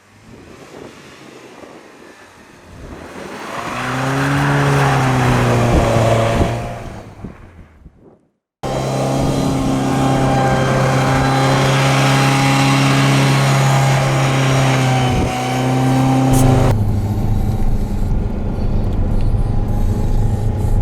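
Motor vehicle engine noise. A pitched engine sound grows louder and fades away over about eight seconds, then cuts off suddenly. A loud, steady engine hum follows, dropping to a lower rumble near the end.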